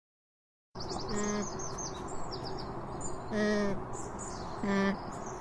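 Small birds chirping, a quick run of short high falling notes, over steady outdoor background. Three short, lower-pitched animal calls stand out, about a second in, in the middle and near the end; these are the loudest sounds.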